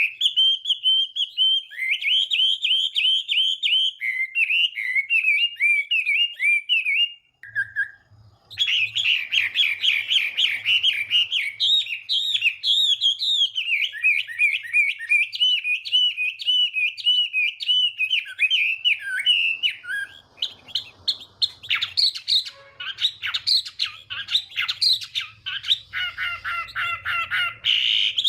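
Chinese hwamei singing a long, loud, varied song of rapid whistled phrases, each repeated several times, with a brief pause about seven seconds in. A faint low hum runs beneath the song after the pause.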